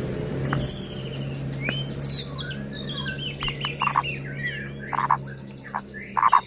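White-rumped shama (murai batu) singing a varied song of whistles and glides with short harsh notes mixed in. The loudest are two sharp high whistles in the first two seconds or so.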